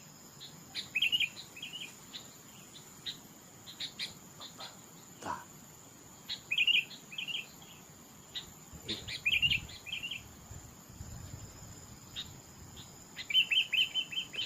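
Bird calls: clusters of short, quick chirps repeating every second or two, over a steady high insect whine.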